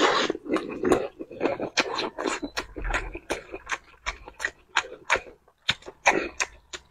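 Close-miked chewing of grilled sausage in chili oil: wet mouth smacks and clicks, several a second, with a louder, noisier bite and slurp at the start.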